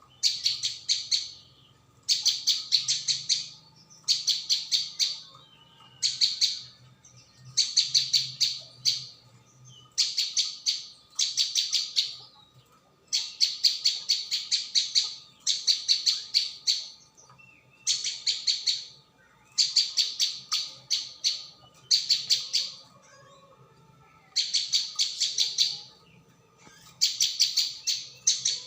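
Ciang-ciang (prenjak bawah) song in a bird-trapping lure recording: short bursts of rapid, high chattering notes, each about a second long, repeated every second or two without a break.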